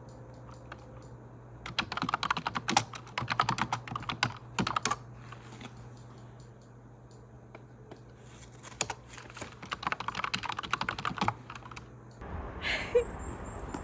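Typing on a computer keyboard in two bursts of rapid key clicks, over a steady low hum. Near the end it cuts to a different background.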